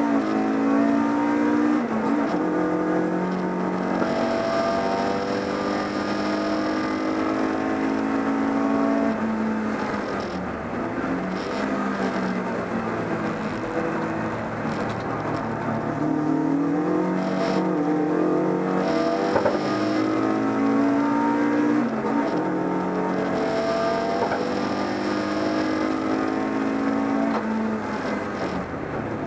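BMW 318is race car's four-cylinder engine at racing revs, heard from inside the stripped cabin. Its pitch climbs and falls over and over as it accelerates through the gears and slows for corners.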